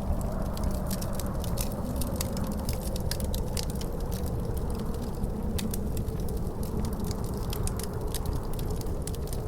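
Wood fire crackling in a fireplace, with many irregular sharp pops and snaps over a steady low rumble of wind, whose faint howling tone wavers slowly in pitch.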